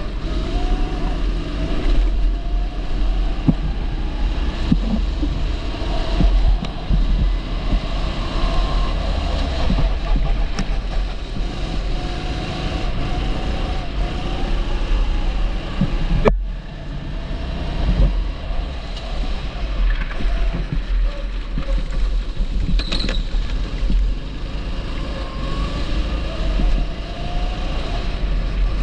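A 270 cc kart engine running on track, its pitch rising and falling with the throttle, over a heavy low rumble from wind and vibration on the onboard microphone. A sharp knock about 16 seconds in.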